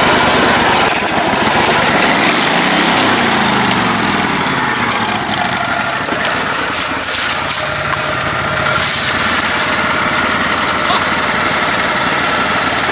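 Lifted riding mower engines running under load, their pitch sweeping up and down a few seconds in as the throttle changes.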